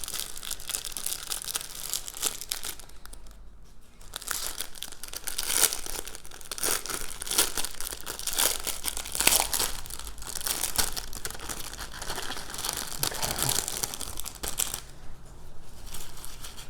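Small plastic bags of diamond-painting drills crinkling as they are handled, going on and off with brief pauses about three seconds in and near the end.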